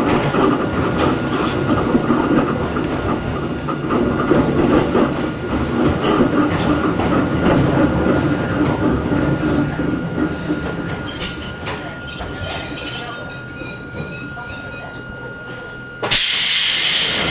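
Running sound of Hakone Tozan Railway Moha 1 No. 106, a mountain electric railcar with nose-suspended traction motors: wheels rumbling under the car, with a high wheel squeal on a curve. The sound grows gradually quieter, then a sudden hiss sets in near the end.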